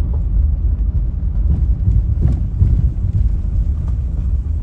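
Car rolling slowly along a bumpy gravel road: a steady low rumble of tyres and engine.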